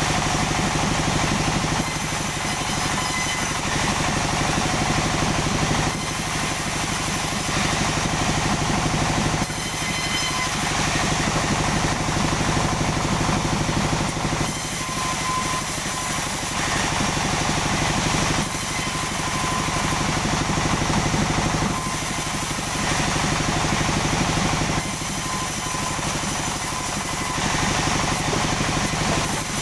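Sawmill machinery running: a steady engine sound, its character shifting every few seconds.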